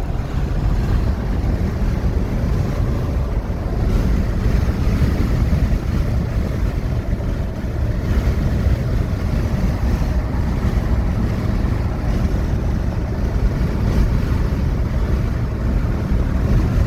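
Steady low rumble of wind and road noise from a moving vehicle, with wind buffeting the microphone.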